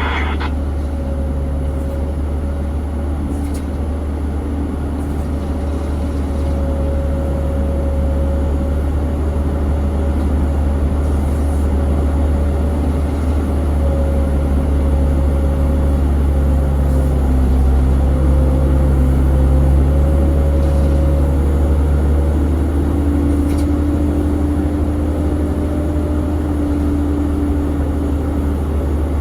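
Steady low engine rumble with a few faint, steady tones that drift slowly in pitch.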